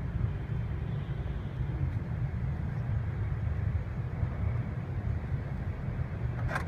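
Steady low outdoor rumble of traffic-like background noise, with one sharp click near the end.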